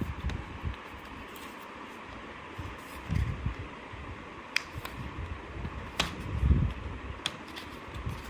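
Handling of a charger's retail box and packaging during unboxing: scattered sharp clicks and a few dull knocks over a steady background hiss.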